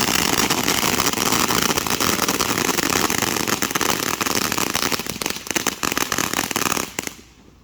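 Fireworks crackling: a loud, dense stream of rapid pops and crackles that thins out after about five seconds and stops abruptly about seven seconds in.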